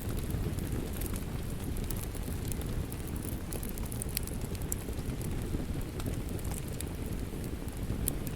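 Wood fire crackling with frequent small sharp pops, over a steady hiss of rain.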